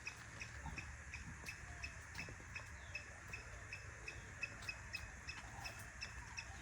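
Faint outdoor wildlife ambience: a quick, even series of short high chirps, about three a second, over a low background rumble.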